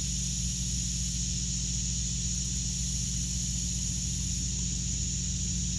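Engine idling: a steady low hum, with a steady high hiss above it and a fainter, higher hiss that comes and goes twice.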